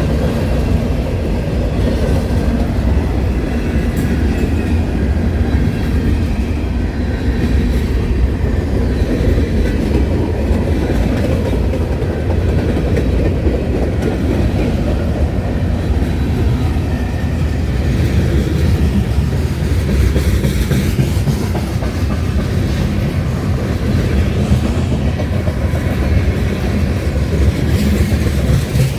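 A train's cars rolling past, the wheels clattering steadily over the rails.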